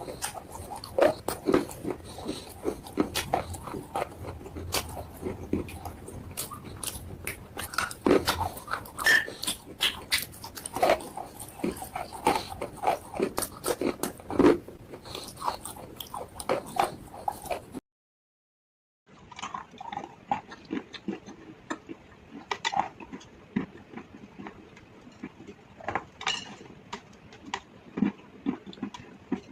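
Close-miked biting and chewing of chalk and slate pencil: a dense run of sharp, brittle crunches and clicks. The sound drops out completely for about a second just past halfway, then the crunching resumes more sparsely.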